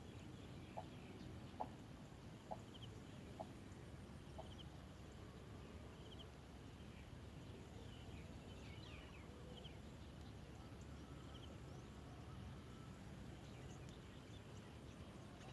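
Faint, short clucking bird calls repeated about once every 0.8 s, dying away about four seconds in, with scattered faint high chirps from small birds over a low background rumble.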